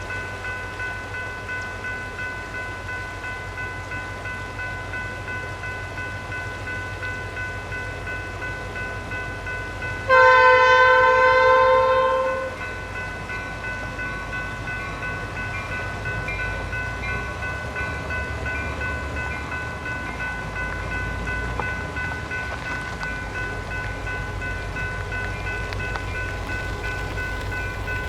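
Train running with a steady rumble and a steady high whine underneath. About ten seconds in, a locomotive horn sounds one loud chord blast lasting about two and a half seconds.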